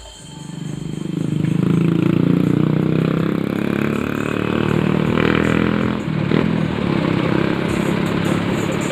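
A vehicle engine running. It grows louder over the first second and a half, then runs steadily, with a brief dip about six seconds in.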